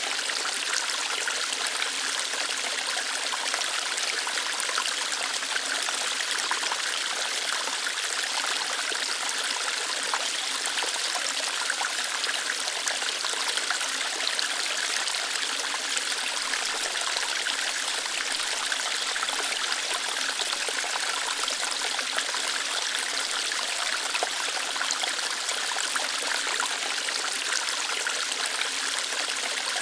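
Small waterfall, water flowing lightly over rocks in a steady, even splashing hiss.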